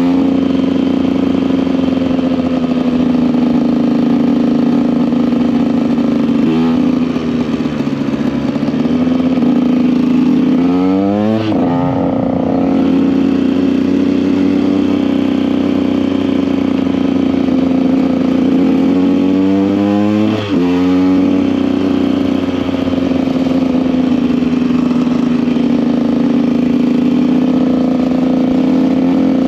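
KTM EXC 125 two-stroke single-cylinder enduro engine running under way at steady revs. Its pitch swoops quickly three times, about 7, 11 and 20 seconds in, as the revs change through shifts or throttle blips.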